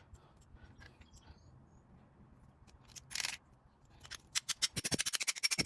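Small metal carburetor parts and tools being handled on a bench: faint light clicks, a brief hissy scrape about three seconds in, then a quick run of sharp clicking and scraping near the end.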